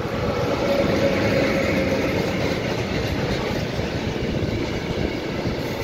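A Škoda 181 electric locomotive hauling a train of tank wagons past at close range: a loud, steady rumble of wheels on rails, with a steady tone over it for the first two seconds or so as the locomotive goes by, then the tank wagons rolling past.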